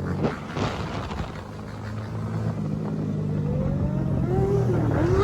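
Motorcycle engines running steadily, with revs rising and falling in pitch in the second half.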